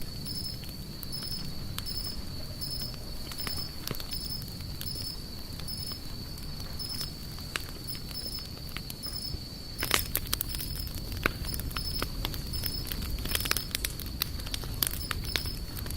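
Wood fire crackling, with sharp pops that come thicker and louder from about ten seconds in over a low steady rumble. A steady high insect trill with regular chirps runs beneath it.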